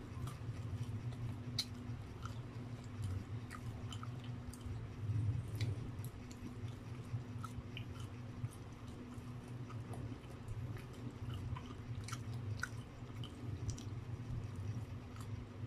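Close-up mouth chewing of soft food, with many small wet clicks scattered throughout, over a steady low hum.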